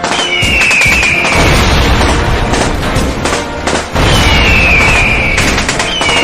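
Loud, distorted meme sound effect with booming noise throughout and a falling whistle tone three times, near the start, about four seconds in and near the end.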